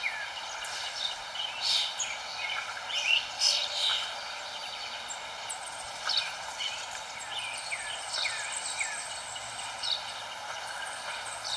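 Several songbirds chirping: many short, high chirps and quick falling notes, busiest a couple of seconds in, over a steady background hiss.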